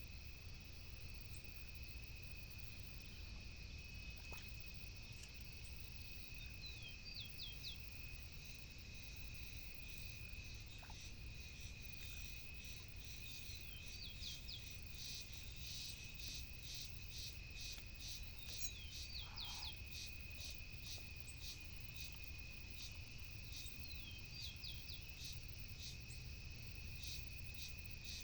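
Insects chirping: a steady high drone with rows of rapid pulses above it. A small bird calls now and then in short runs of quick chirps, over a low rumble.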